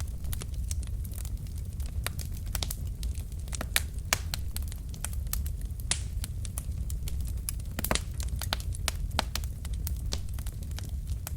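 Wood fire burning in a fireplace: a steady low rumble of flames under irregular sharp crackles and pops from the burning logs, with a few louder pops.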